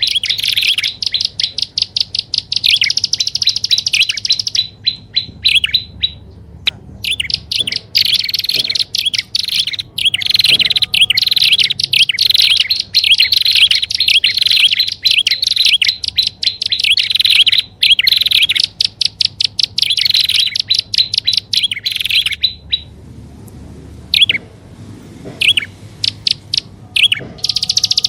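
Prinias (prenjak) calling in long, rapid trains of sharp chirps, with a short break about six seconds in and a longer lull near the end before the chirping resumes. This is a bird-lure recording used to attract wild prinias.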